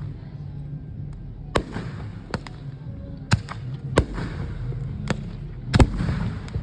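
Aerial fireworks display: a series of sharp shell bursts about a second apart, each followed by crackling, with the loudest, a quick double bang, near the end.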